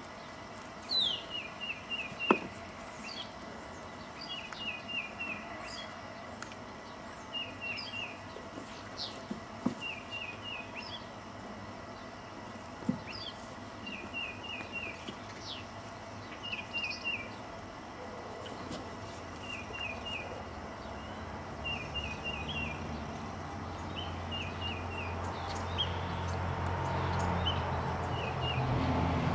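A small songbird repeating a short phrase every two to three seconds: a high downward note, then three or four quick chirps. A few sharp knocks are heard, and in the last third a low rumble grows steadily louder.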